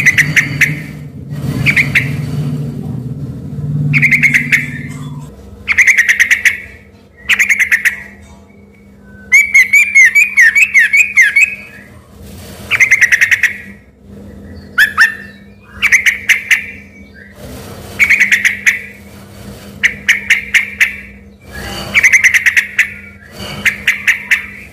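Yellow-vented bulbul (trucukan) singing: short bursts of rapid chattering notes every second or two, with one longer warbling phrase about ten seconds in.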